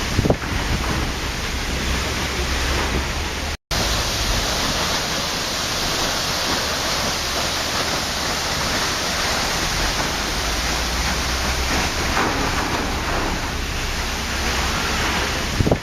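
Waterfall: a steady rush of falling water. The sound drops out for an instant about three and a half seconds in.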